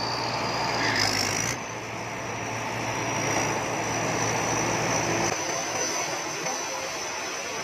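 Rice combine harvester running steadily under load, with a high thin whine over the machinery noise. The low engine drone drops away about five seconds in.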